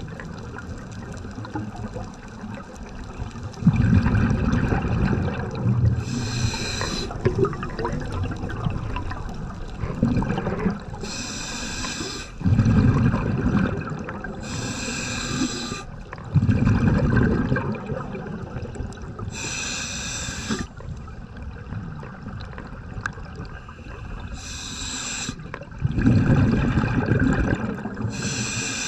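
Scuba diver breathing through a regulator underwater: a short hissing inhalation through the regulator, then a low rumbling burst of exhaled bubbles, repeating about every five seconds.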